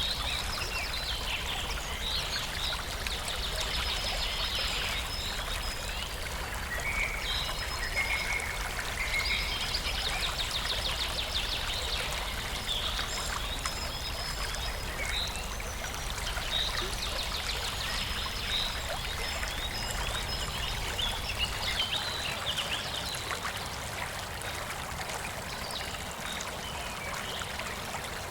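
A stream running steadily, with birds chirping and trilling over it.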